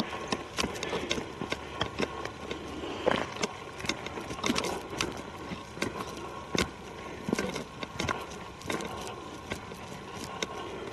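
Footsteps on a forest trail, crunching through leaf litter and twigs: irregular crackles and snaps.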